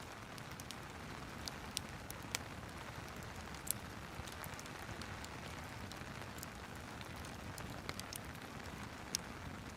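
Steady rain with a fireplace crackling, sharp pops at irregular moments, a few of them louder than the rest.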